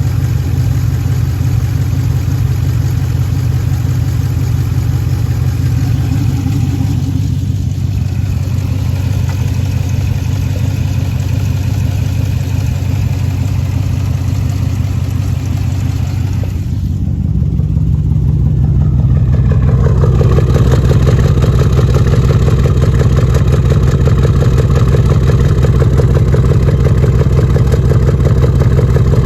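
2013 Jeep Grand Cherokee engine running with a cylinder 5 misfire, heard through the exhaust; the owner blames a bad lifter and camshaft. About seventeen seconds in, the engine speed steps up and the sound grows louder.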